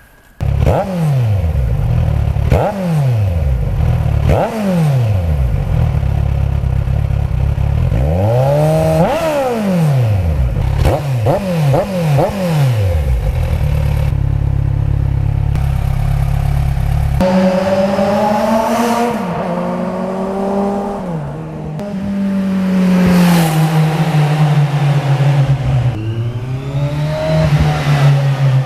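Kawasaki Z1000's inline-four engine breathing through an aftermarket Toce exhaust, revved in a series of sharp blips that climb and fall back quickly. About 17 s in it changes to steadier held revs that sag slowly.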